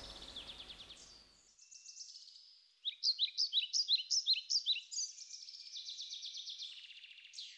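Songbirds singing: a faint trill at first, then from about three seconds in a run of loud, quick down-slurred chirps, followed by a long rapid trill near the end.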